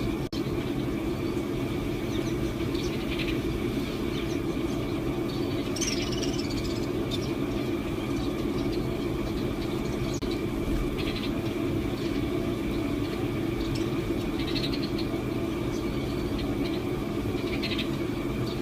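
Short bird chirps scattered every second or two over a steady low mechanical hum, which is the loudest sound.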